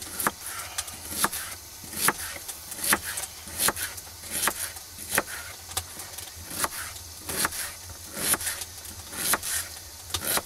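Knife chopping an onion, a steady run of sharp cutting strokes at about two a second.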